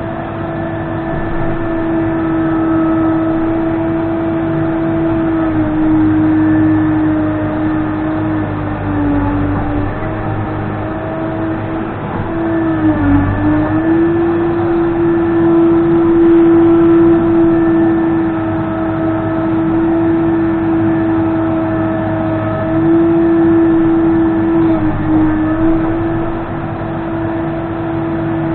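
Case 580N backhoe loader's diesel engine running steadily at high revs with a strong whine, its pitch dipping briefly twice, about a third of the way and halfway through.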